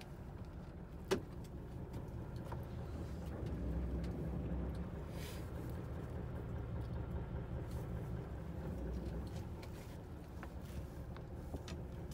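A boat's engine running with a low, steady rumble, with one sharp click about a second in and a few faint ticks after it.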